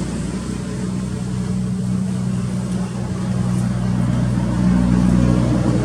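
An engine running steadily with a low hum, growing a little louder about four and a half seconds in.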